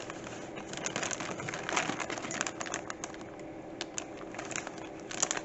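Plastic model kit parts in their bag being handled: irregular light clicks and crinkles, with a quick cluster of sharper clicks near the end.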